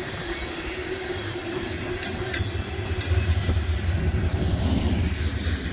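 Loaded coal train's freight cars rolling past on the rails, a steady rumble that grows heavier about three seconds in, with a few brief sharp clanks, and wind buffeting the microphone.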